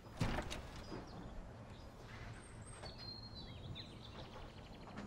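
Steady low background ambience with a few faint bird chirps about two to three seconds in, after a short sudden noise at the start.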